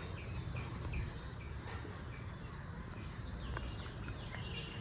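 Caged small birds chirping: short high chirps, each falling in pitch, repeating about twice a second over a low steady background noise.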